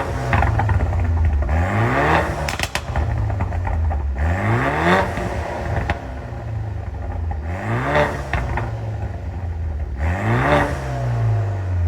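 BMW F10 520i petrol engine revved in four short blips, about one every three seconds, each rising and then falling back. It is heard through an aftermarket exhaust with chrome 60 mm pipes and twin Varex valves.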